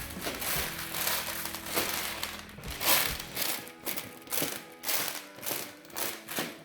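Background music with irregular rattling and clattering of hard candy-coated Skittles and plastic toy monster trucks being moved about.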